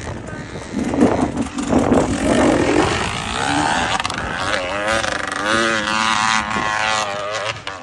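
Off-road dirt bike engine revving, its pitch climbing and then wavering up and down with the throttle.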